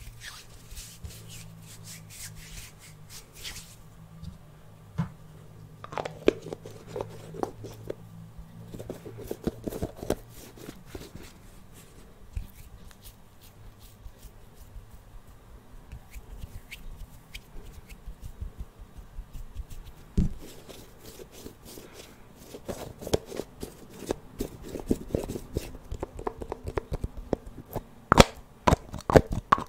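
Close-miked ASMR hand sounds: fingers tapping, scratching and handling small objects in quick irregular clicks, growing denser and louder near the end.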